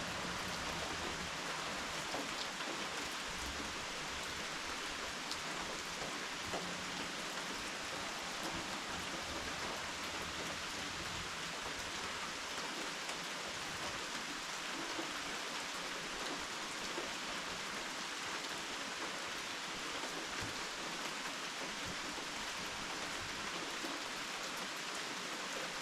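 Steady rain falling: an even hiss with a few scattered drops ticking.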